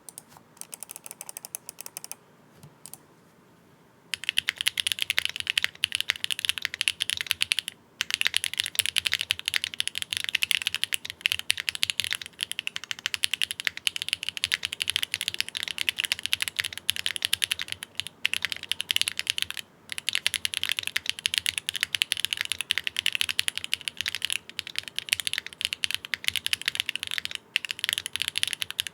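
Typing on a Bakeneko60 mechanical keyboard with SWK Ghost Dragon switches on a polypropylene plate, no foam, on its stock hotswap PCB. A few light keystrokes first, then after a short pause steady fast typing from about four seconds in, broken by a few brief stops.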